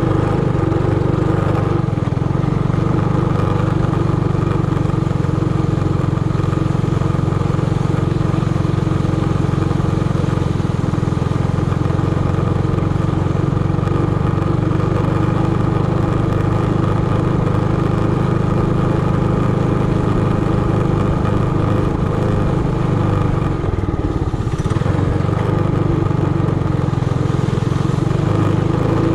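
Trailmaster Hurricane 200X minibike's small single-cylinder four-stroke engine running steadily while riding, with one brief dip in the engine note about two-thirds of the way through.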